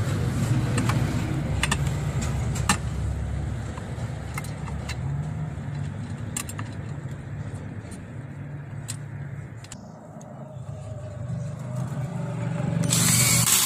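Sharp clicks and knocks of metal and plastic parts being handled and fitted back onto a washing machine's clutch assembly, over a steady low hum. A loud scraping rustle comes near the end.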